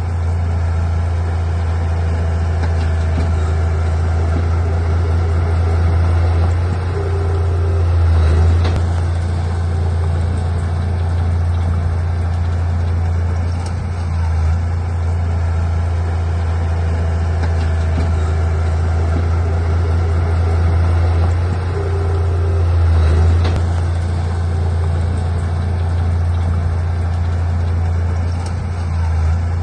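Heavy earthmoving machine's diesel engine running with a steady low drone, swelling louder twice, about 8 and 23 seconds in, as it takes load.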